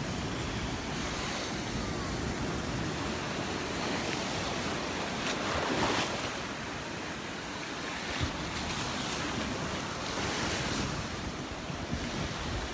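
Gulf of Mexico surf breaking and washing up on the beach, with wind buffeting the microphone. The wash swells twice, about halfway through and again near the end.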